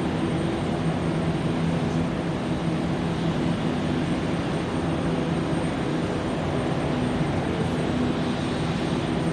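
Jet airliner engines running steadily: a continuous rushing noise with a low, even hum.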